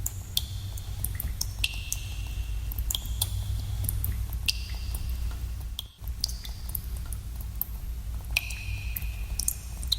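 Water drops falling in a cave, each a sharp plink with a short ringing pitch, coming irregularly several times a second over a steady low rumble. The sound briefly drops out about six seconds in.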